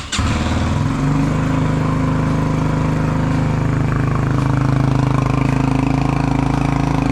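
Hawk 250 dual-sport motorcycle's 250cc single-cylinder engine firing up on the starter, then settling into a steady idle about a second in.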